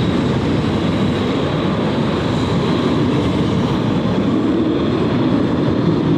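Steady low rumble of distant jet aircraft engines at the airfield.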